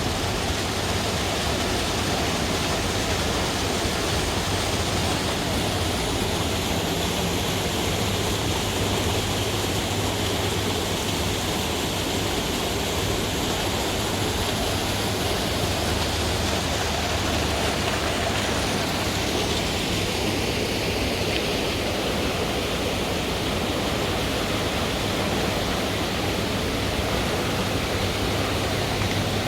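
Steady rush of water pouring from a khlong pumping station's outflow, with a constant low hum underneath.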